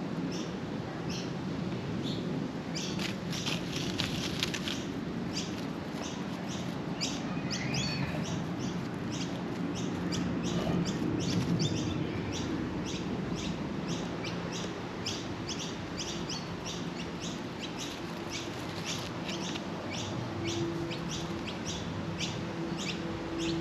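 Birds chirping in short, high, repeated notes, about two or three a second, over a low steady hum.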